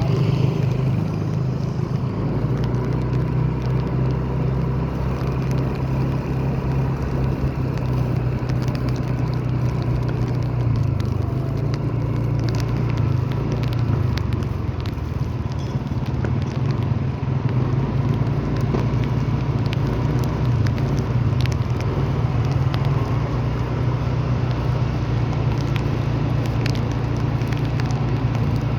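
A motor vehicle running with a steady low rumble, with scattered light ticks and crackles over it.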